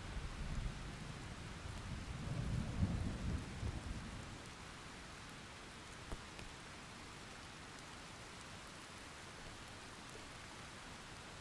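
A low rumble of distant thunder rolls through the first few seconds, swelling about three seconds in and fading by four, over steady rainfall. The rain then carries on alone as an even hiss.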